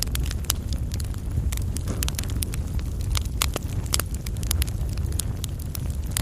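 Fireplace fire burning on coals: a steady low rumble with frequent sharp, irregular crackles and pops.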